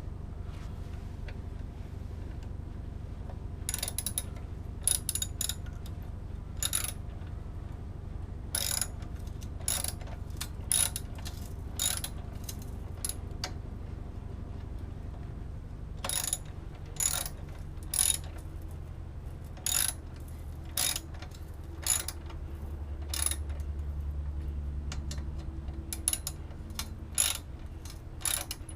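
Ratchet wrench clicking in short runs with pauses between them as the exhaust clamp bolts under the motorcycle are tightened, over a steady low hum.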